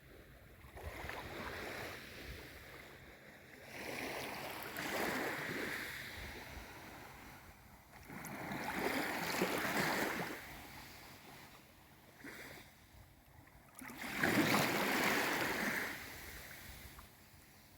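Gentle sea waves washing in and drawing back, four soft surges a few seconds apart, the strongest near the end.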